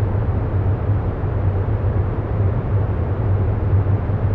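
Steady, even low rumbling noise with a strong low hum, no breaks or distinct events: a continuous ambient background bed.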